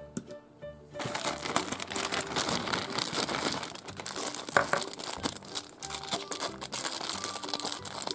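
Thin clear plastic bag crinkling as hands handle and open it, starting about a second in.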